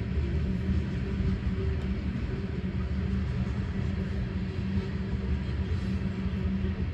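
Steady low rumble of a loaded train of ethanol tank cars rolling past, heard from inside a car, with road traffic passing by.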